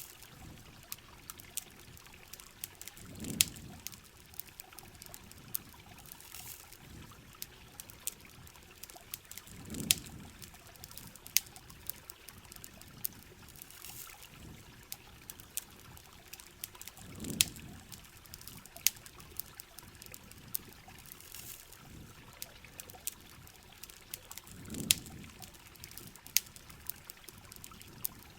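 Rain and campfire ambience: steady rain with many sharp crackles and pops scattered throughout. A low swelling whoosh of water recurs about every seven seconds.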